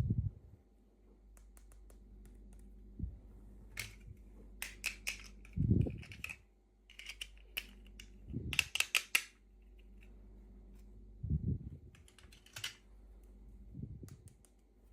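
Small plastic packaging and miniature toy pieces being handled and opened: clusters of sharp clicks and taps, with a brief crinkly rustle and dull low thumps from time to time.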